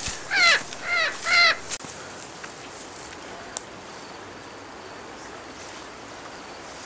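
Three short bird calls in quick succession, each falling in pitch, then a steady background hiss.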